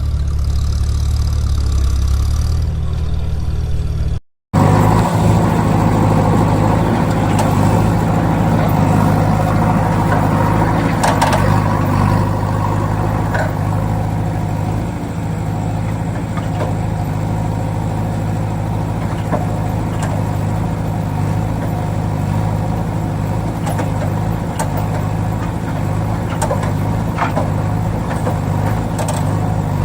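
Heavy vehicle's diesel engine running steadily at idle, cut off briefly by a drop to silence about four seconds in, with a few faint knocks over it.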